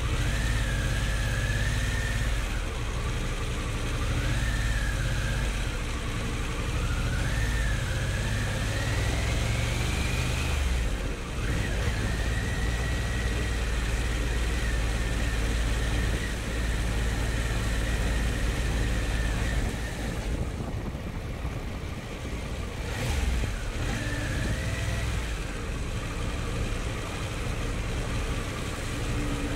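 Harley-Davidson Pan America's Revolution Max 1250 V-twin running under way, a heavy steady rumble with a higher whine that rises and falls with throttle. The sound dips briefly about eleven seconds in, then the whine holds steady.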